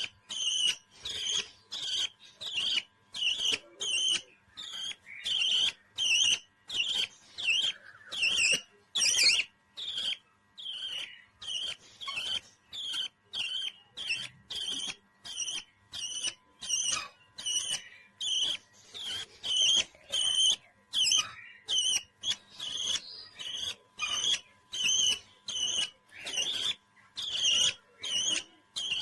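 Pet parrot calling: short, high-pitched chirps repeated steadily, nearly two a second.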